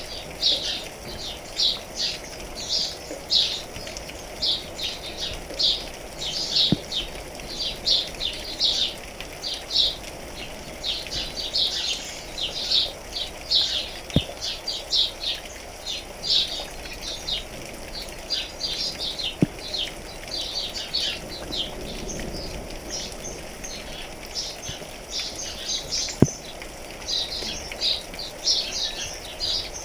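Many small birds chirping busily in short, high notes over a steady patter of rain, with a few faint ticks scattered through.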